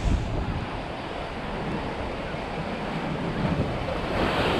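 Ocean surf breaking and washing on a reef shoreline, with wind buffeting the microphone; a wave washes in louder near the end.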